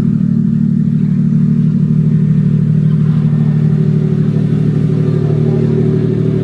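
A car engine running loud and steady, holding one even pitch without revving up or down.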